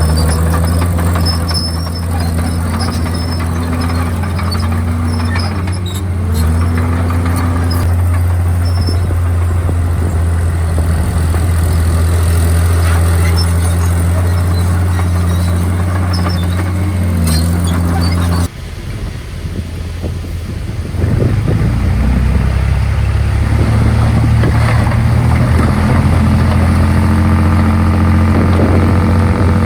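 Komatsu D51PX bulldozer's diesel engine running, its pitch dipping and recovering a few times as it takes load. The sound breaks off abruptly about two-thirds of the way through, and the engine picks up again steadily a couple of seconds later.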